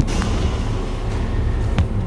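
Car engine idling, a steady low rumble heard from inside the cabin, with a sharp click near the end.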